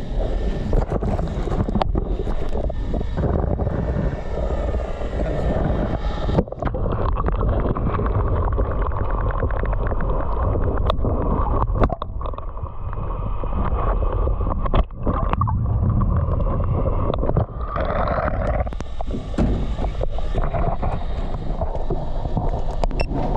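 Wind buffeting the microphone in a dense, steady low rumble out on the water, with scattered knocks and clicks. The sound turns muffled about six seconds in and clears again near the end.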